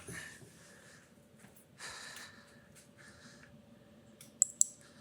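Two sharp clicks in quick succession near the end, the loudest sounds here, amid a few soft breaths. They are made while the grinder is being readied for power.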